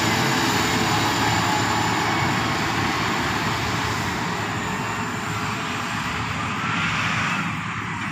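Heavy diesel earthmoving machinery, an excavator or dump truck, running steadily with a continuous engine and hydraulic drone that eases a little after about five seconds.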